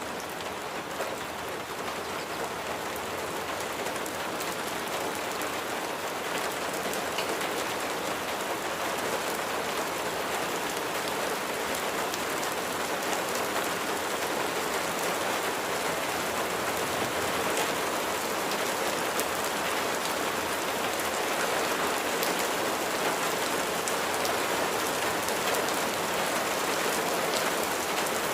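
Steady rain falling: an even hiss with a fine patter of drops, slowly growing a little louder.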